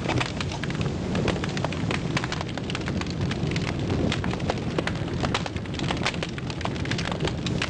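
A fire burning: a steady low rumble with many sharp, irregular crackles and pops throughout.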